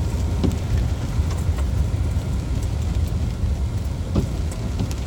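Car driving slowly, a steady low road and engine rumble heard from inside the cabin, with a few light knocks and bumps.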